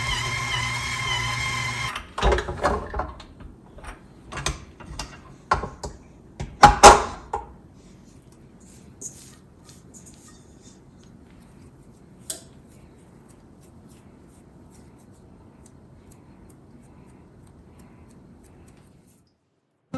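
Guitar music stops, then a run of sharp knocks and clatters in a small room, the loudest a pair about seven seconds in. A few faint ticks follow over quiet room tone.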